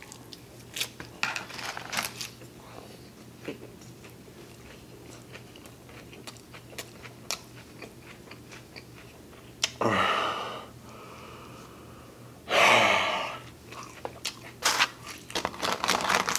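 Close-up chewing of crunchy romaine lettuce, with many small crackly crunches and wet mouth clicks. About ten seconds in and again about two and a half seconds later come two loud, heavy breaths, each lasting close to a second.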